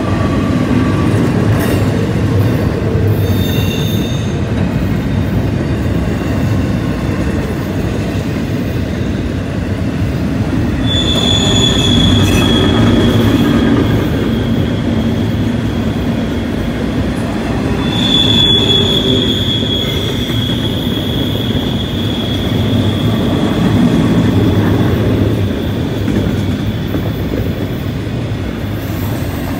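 Double-stack intermodal container well cars of a long freight train rolling past: a steady rumble of steel wheels on rail. A high, steady wheel squeal from the cars rounding the curve comes in about eleven seconds in, and again more strongly for about ten seconds past the middle.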